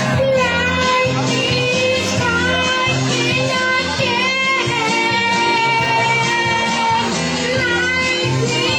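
Karaoke singing over a recorded backing track: a voice holds and slides between long notes above a steady accompaniment.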